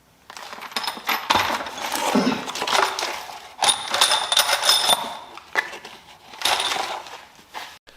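Metal engine parts and tools being handled, a run of clinks and clatters with a few ringing metallic strikes about halfway through.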